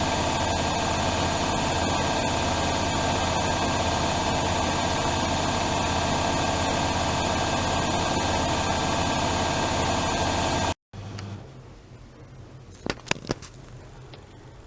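Privileg Dynamic 7420 washing machine running: a loud, steady motor whine over a deep hum. It stops dead about eleven seconds in, and a few faint clicks follow.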